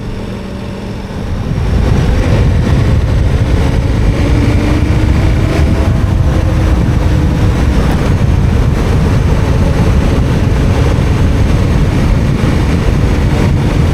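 KTM 1290 Super Adventure R's V-twin engine running under way, mixed with a heavy low rumble of wind and tyres; it gets louder about a second and a half in and then holds steady.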